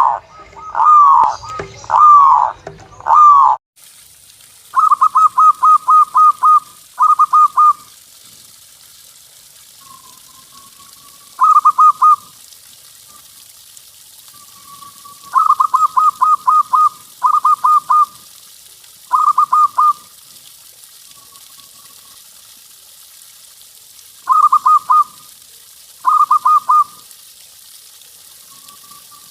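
Zebra doves (perkutut) cooing. Near the start there are loud, down-sliding coos about once a second. After an abrupt change a few seconds in, the calls come as bursts of rapid staccato notes, with softer drawn-out coos between them, over a steady hiss.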